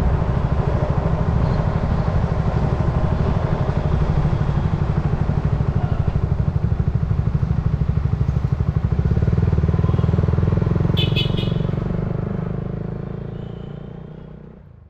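Honda motorcycle engine running through an aftermarket Yoshimura GP Magnum titanium exhaust, holding a steady pace while riding, with a brief high clicking about eleven seconds in. The sound fades out near the end.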